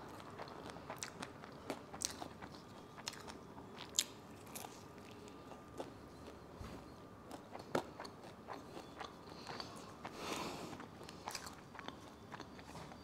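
Close-up chewing and biting of a pizza slice, with faint crunches and many small wet mouth clicks. There is a short breathy puff of noise about ten seconds in.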